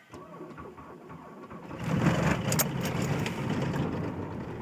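Cold start of a 1996 VW Passat's 1.9 L four-cylinder turbodiesel at about -9 °F: it cranks on the starter, catches about two seconds in, and then runs steadily.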